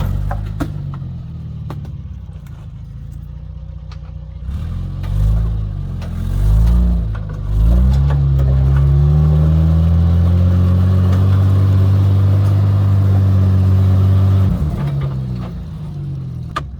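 Four-wheel-drive engine running low, then revving up in a few uneven surges and holding at high revs for about six seconds before dropping back near the end.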